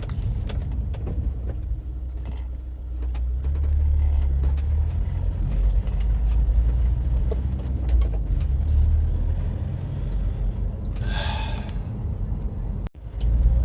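Steady low road and engine rumble heard inside the cabin of a VW Caddy van on the move, the van in limp mode. The sound cuts out abruptly for a moment near the end.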